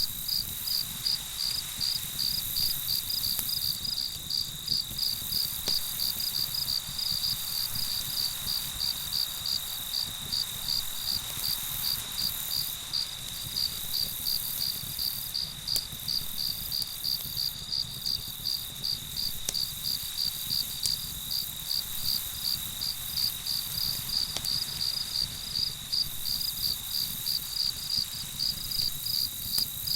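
Crickets chirping in an even rhythm, about two chirps a second, over a continuous high trill.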